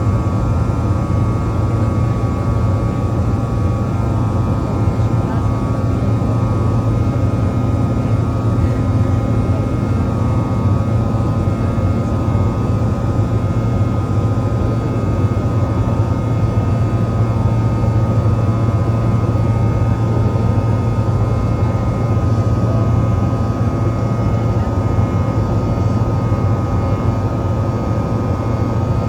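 BAe Avro RJ100's four Honeywell LF507 turbofan engines running steadily, a constant low drone with a cluster of steady whining fan tones above it.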